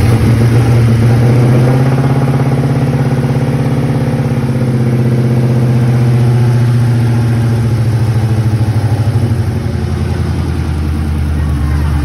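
Ford Mustang engine running at idle just after its first start-up with a newly installed On3 turbo kit, not yet tuned. It runs steadily, the level easing off a little about eight seconds in.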